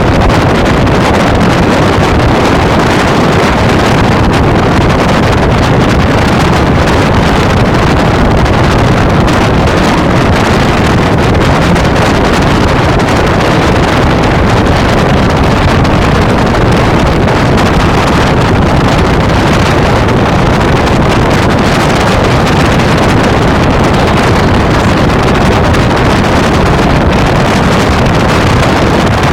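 Very loud wind noise buffeting the microphone on a moving Mazda RX-8, a steady dense rush that masks the car's own sound.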